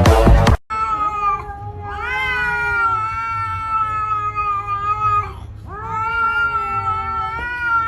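A cat yowling in long drawn-out calls: a short one, then two long, steady ones held for three seconds or more. A burst of dance music cuts off just under a second in.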